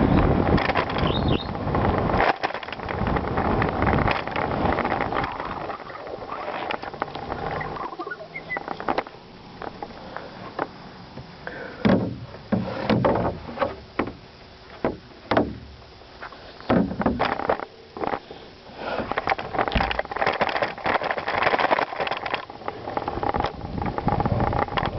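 Bicycle ridden over a rough gravel trail: wind buffeting the microphone and a rumble of tyres on gravel, broken by frequent knocks and rattles from the bike. It eases off in the middle, where separate thumps stand out, then picks up again near the end.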